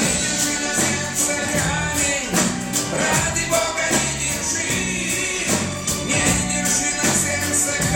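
Live pop-rock band playing a song, with a drum kit keeping a steady beat under the instruments and singing.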